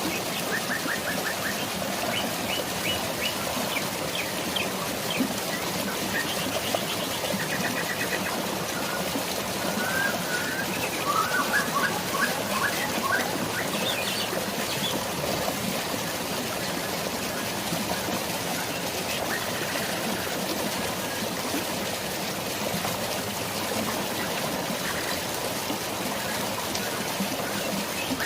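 Steady hiss of rain and flowing water with birds chirping and trilling over it, most busily in the first half.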